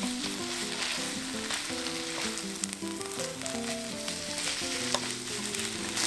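Bean sprouts and onion sizzling in a hot wok as they are stir-fried with chilli flakes, with scattered clicks of the wooden spatula and chopsticks against the pan. Soft background music with a slow melody plays under it.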